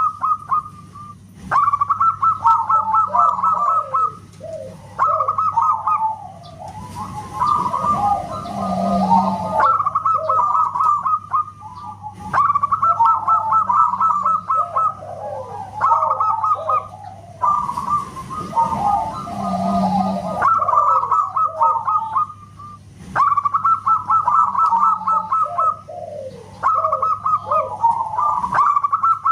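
Zebra dove (perkutut) cooing: phrases of rapid notes repeated over and over with short gaps, over a faint steady hum.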